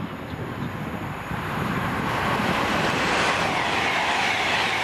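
Class 390 Pendolino electric train passing at speed on the fast line. A rush of wheel and air noise grows louder over the first two seconds, then holds steady as the train runs by.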